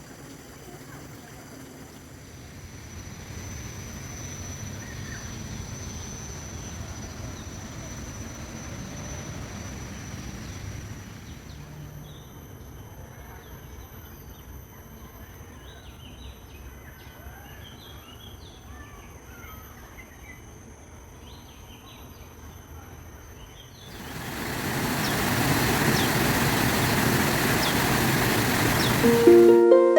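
Outdoor ambience in three parts. First a low rumble with a thin steady high whine, then a quieter stretch with scattered faint bird chirps. About twenty-four seconds in, a loud rushing noise starts and lasts about five seconds.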